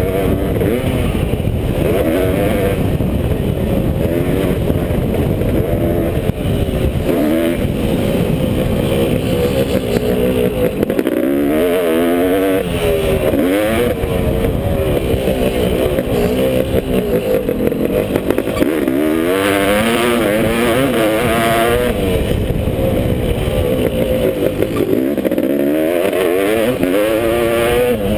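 Honda CR500 two-stroke single-cylinder motocross engine being ridden hard, its pitch climbing and dropping again and again as the throttle is opened and shut through the gears.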